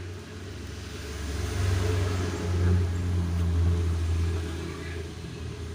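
A motor vehicle going past: a low engine rumble and road noise that swell to a peak a couple of seconds in and then fade.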